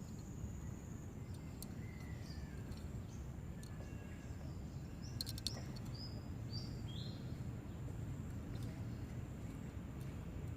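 Outdoor background noise with a short run of high bird chirps about halfway through.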